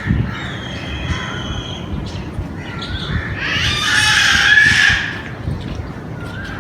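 Birds calling, with one loud, harsh, noisy call from about three to five seconds in over fainter thin calls.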